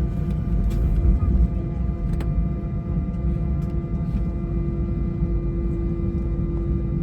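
Airbus A320's IAE V2500 engines at high thrust for takeoff, heard from inside the cabin: a heavy low rumble with a steady hum, and a few sharp rattling clicks from the cabin.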